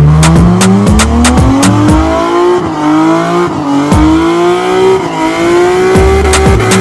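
A car engine revving hard, its pitch sweeping up and easing back in long glides, over a steady music beat.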